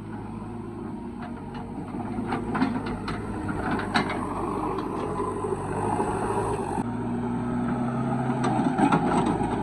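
Heavy diesel machinery running steadily, with scattered sharp knocks and clatter over it. The engine sound grows louder through the clip and changes tone abruptly about seven seconds in.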